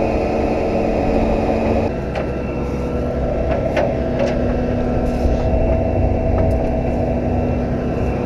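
Tow truck's engine running steadily, with the engine sound shifting about two seconds in and a few light clicks later.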